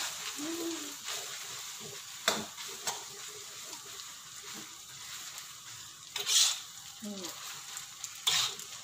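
Boiled spaghetti sizzling in hot oil and spice paste in a wok as it is stirred with a metal spatula, which scrapes and knocks against the pan now and then. The loudest knock is a little after six seconds in.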